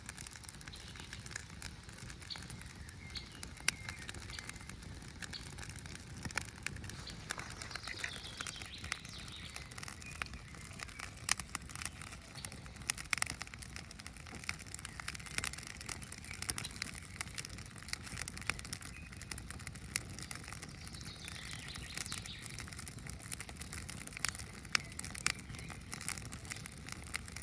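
Birch-bark campfire crackling with scattered sharp pops. A bird chirps a couple of times in the background.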